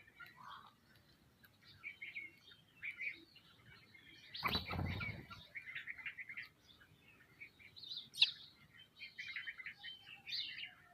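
Small birds, sparrows among them, chirping busily in many short overlapping calls. About four and a half seconds in there is a brief, louder rustle lasting about half a second.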